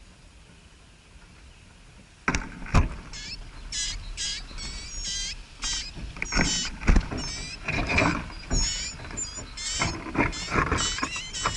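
Small birds calling in rapid, high, wavering chirps, mixed with knocks and rustling. It starts suddenly about two seconds in after a quiet stretch and carries on, two or three chirps a second.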